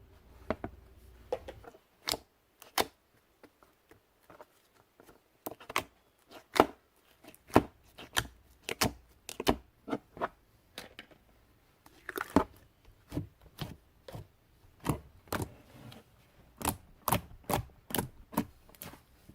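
Bubble slime being pressed and played with by hand, giving a string of sharp, irregular pops and clicks, roughly one or two a second, as air pockets in the slime burst.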